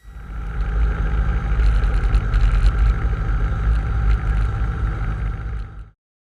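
Cessna 150's four-cylinder engine and propeller running while taxiing, heard inside the cabin as a heavy, steady low rumble. It cuts off abruptly near the end.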